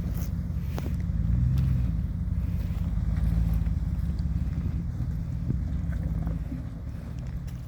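Off-road vehicle's engine and drivetrain running low and steady while driving a dirt trail, swelling a little a couple of times, with a few light clicks and knocks.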